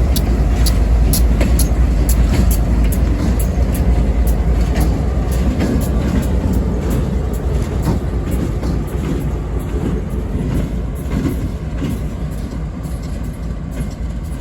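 Standard-cab GE Dash 8 diesel-electric locomotive and its train rolling past with a heavy low rumble, fading slowly toward the end. Sharp clicks, most of them in the first half, are typical of wheels passing over rail joints.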